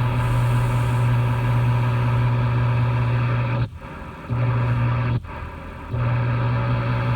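A steady, loud machine hum with many overtones, cutting out twice for about half a second each and starting again.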